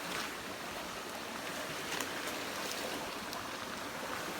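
Creek water running: a steady hiss of flowing water, with a few faint ticks.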